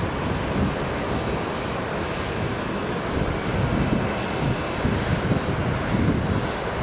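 Jet airliner engines running: a steady noise with no clear tone.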